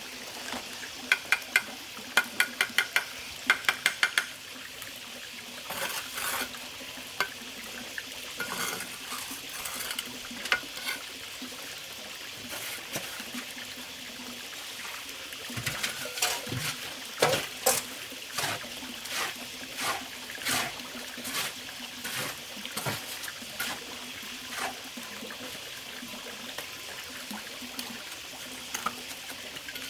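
A quick run of sharp metallic clinks in the first few seconds, then irregular knocks and scrapes, over the steady sound of running water.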